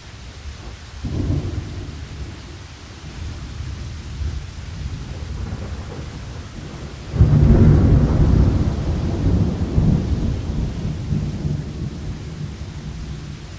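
Thunderstorm: steady rain hiss with thunder, a smaller rumble about a second in, then a louder low crack and roll about seven seconds in that rumbles on and slowly fades.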